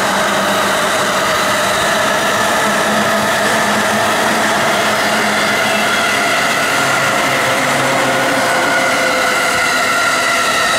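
Electric commuter trains of the JR Tokaido Line running past on the tracks: a steady, loud rumble of wheels on rail with a steady whine in it.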